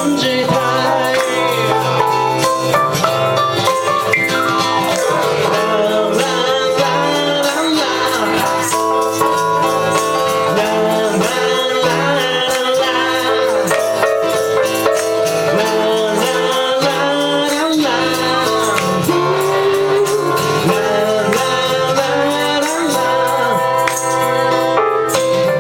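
Live ragtime-blues music from a small ensemble, with singing over the instruments.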